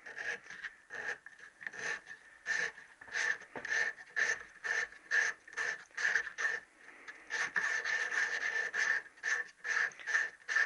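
Emery cloth being twisted back and forth inside a Triumph conrod's bronze little-end bush, a quick series of short rasping strokes about two to three a second, to open up the bore until the gudgeon pin fits. The strokes run together into a steady rasp for a couple of seconds near the end.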